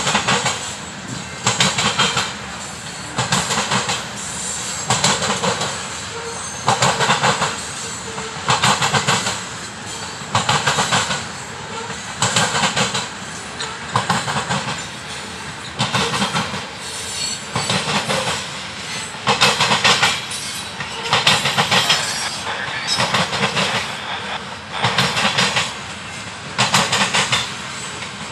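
Kansas City Southern freight train of covered hopper cars rolling past, its steel wheels banging over the track in a steady rhythm. A loud clatter comes about once a second, in pairs as each car's trucks go by, over a continuous rumble.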